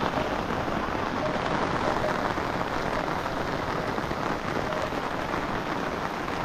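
Heavy rain falling steadily, an even dense patter on surfaces.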